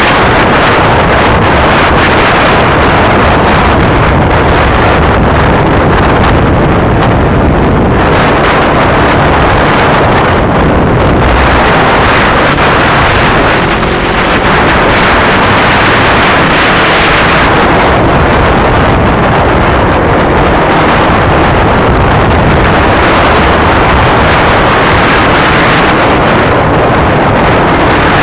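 Heavy wind rushing over the action camera's microphone while riding a Kawasaki Ninja 250R motorcycle, with the engine and road noise running underneath. Steady throughout, easing briefly about halfway through.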